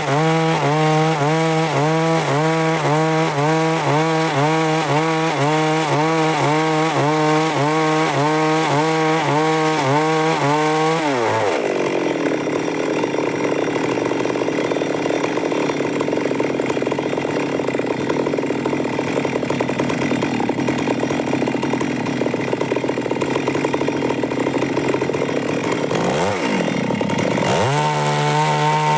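Stihl MS 382 two-stroke chainsaw cutting wood under load. For the first ten seconds or so the engine note wavers up and down about once or twice a second. Around eleven seconds in the pitch drops and a rough sawing noise takes over, and near the end the engine note climbs back up.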